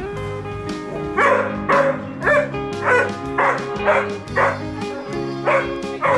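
A dog barking: a quick run of about nine short, sharp barks starting about a second in, over background music with steady held tones.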